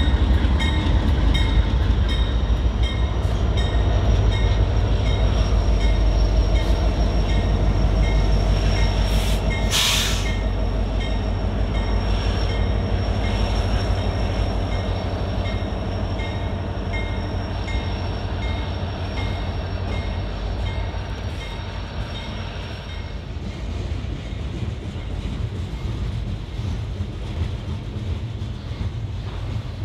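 Norfolk Southern freight train passing: a heavy low rumble from the locomotives and railcars rolling by, slowly fading. A short hiss about ten seconds in, and a thin high-pitched tone over the cars until about two-thirds through.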